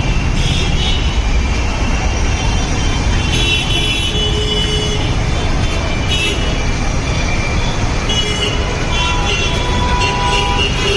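Dense city road traffic: a steady rumble of engines and tyres, with vehicle horns sounding several times.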